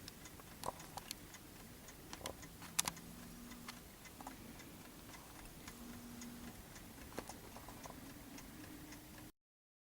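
Faint, irregular small clicks and light taps over quiet room tone, cutting off abruptly to dead silence near the end.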